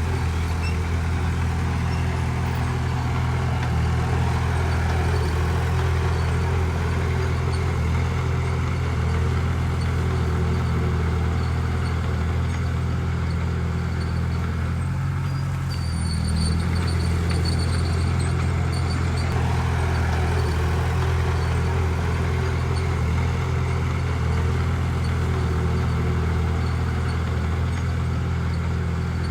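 Heavy diesel engine of an earthmoving machine running steadily with a deep, even drone; the engine note shifts briefly about halfway through.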